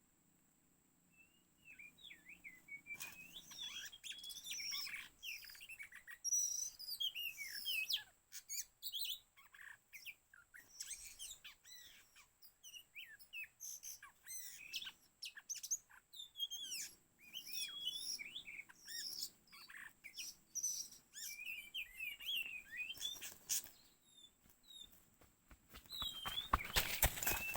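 Oriental magpie-robin (kacer) singing: a long run of varied whistled phrases and chirps that begins about two seconds in, with a burst of harsh, rapid scolding notes near the end.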